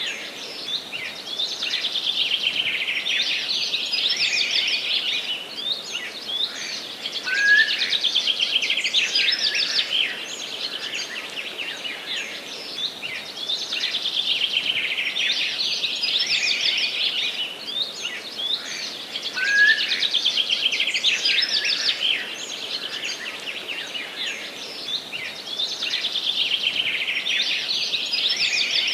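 Several songbirds singing at once in a dense, unbroken chorus of high chirps and rapid trills. It swells louder twice, about a third of the way in and again about two-thirds of the way through.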